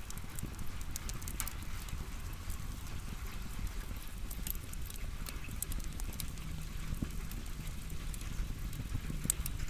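Firewood burning: scattered sharp crackles and pops over a low, steady rumble of the fire.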